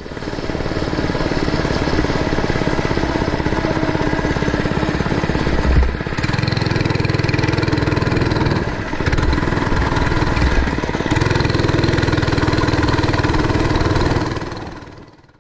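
Mini bike's small engine running while being ridden. The engine note shifts several times and fades away over the last second.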